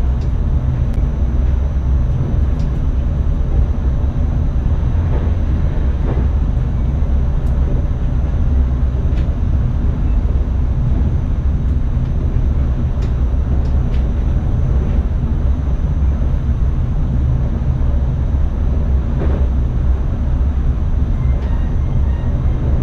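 Steady rumble in the driver's cab of an NS ICM electric multiple unit running along the line, with a thin high steady whine and a few faint ticks.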